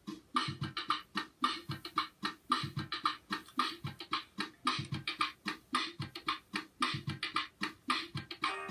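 Song intro of a percussion beat alone: low kick-like thuds under fast, bright, crisp hits, about four to five a second. Near the end a pitched instrument comes in over the beat.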